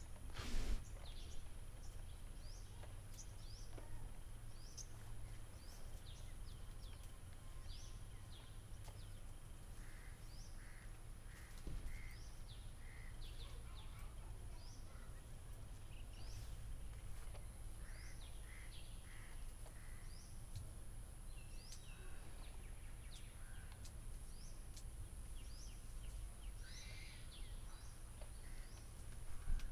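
Small birds chirping and calling over and over, with a steady high-pitched whine and a low rumble underneath. A single knock comes about half a second in.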